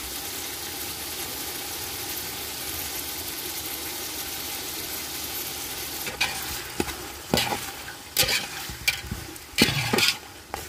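Green peas frying in hot oil in a large metal pot, sizzling steadily. From about six seconds in, a slotted metal spatula stirs them, scraping and clattering against the pot several times.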